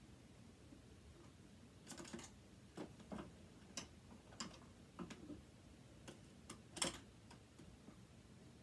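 About a dozen faint, irregular clicks and taps of a screwdriver turning a small stuck screw out of metal parts, the loudest about seven seconds in.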